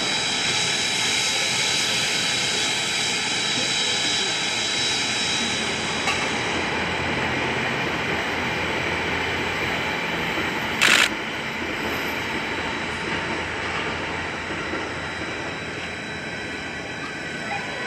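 C57 1 steam locomotive with a steady hiss of escaping steam. About eleven seconds in comes one short, louder burst of hiss.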